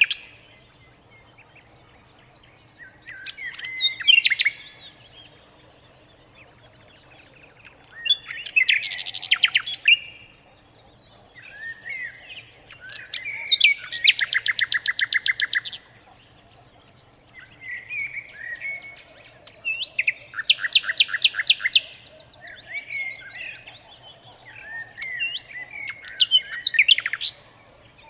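A songbird singing in separate phrases every few seconds, with short pauses between them. Several phrases break into a fast, even trill.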